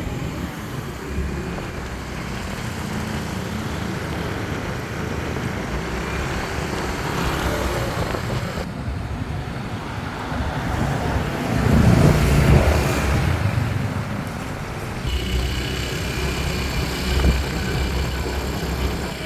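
Engine and road noise of a motorbike ride through town traffic, running steadily, with a louder swell about twelve seconds in.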